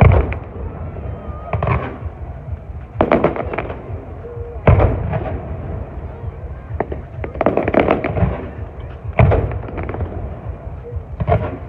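Fireworks display: aerial shells bursting in a string of loud bangs, one every second or two, with rumbling in between. The loudest bang comes about five seconds in.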